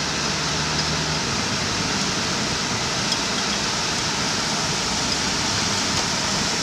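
Heavy storm rain pouring down, a steady, even hiss.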